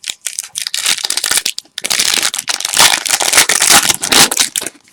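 A trading-card pack wrapper being torn open and crinkled by hand, a dense crackling that grows loudest from about two seconds in.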